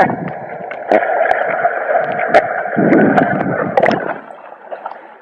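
Water splashing and gurgling close to the microphone, with sharp clicks and knocks, dying down about four seconds in.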